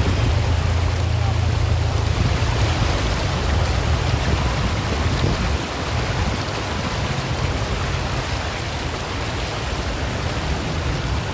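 Steady rushing noise of floodwater and heavy rain over a low rumble, the rumble easing about five and a half seconds in.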